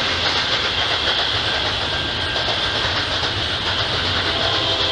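Double-stack container train rolling past at steady speed: continuous noise of steel wheels running on the rails, with no horn or engine standing out.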